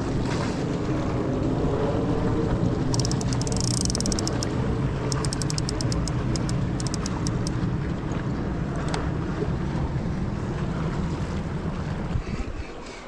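Wind buffeting the microphone over the wash of surf on a rocky shore, a heavy steady rumble. Two quick runs of light clicks come about three and five seconds in.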